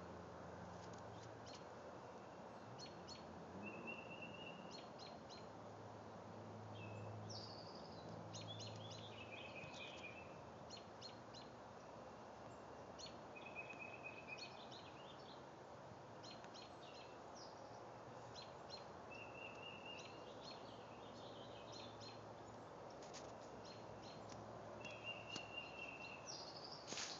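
Birds singing at dawn: short high chirps and brief trills every few seconds, faint over a steady background hiss.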